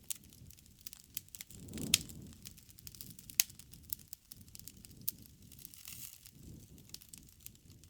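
Wood fire crackling, with scattered sharp pops over a low rush of flame; the loudest pops come about two seconds and three and a half seconds in.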